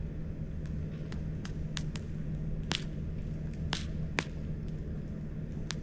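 Burning wood in a campfire crackling, with sharp pops at irregular moments over a steady low rumble.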